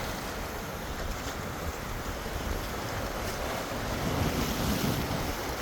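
Sea waves washing in, with wind rumbling on the microphone; the surf swells a little about four seconds in.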